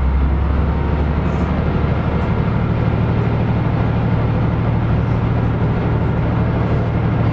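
KiHa 125 diesel railcar's engine running under power, heard from inside the car, with a steady low hum that steps up in pitch about two seconds in as the engine speeds up.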